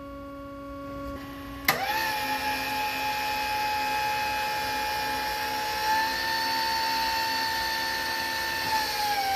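Electric hydraulic pump motor of a Crown SC30 forklift switching on with a click and running with a steady whine as it raises the carriage, its pitch stepping up slightly about six seconds in. It cuts off with a click near the end.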